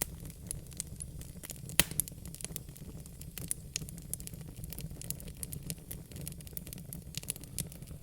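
Wood fire in a fireplace crackling, with many small irregular pops over a low steady rumble of the flames, and one sharp pop about two seconds in.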